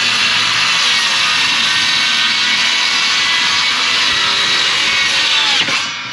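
A power tool motor running steadily for about six seconds, then winding down near the end.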